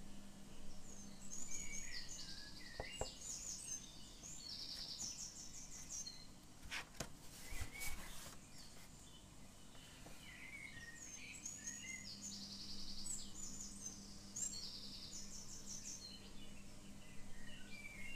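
Faint birdsong: a bird repeating the same phrase of chirps and quick trills twice, with a low steady hum at the start and end and a few brief clicks about seven seconds in.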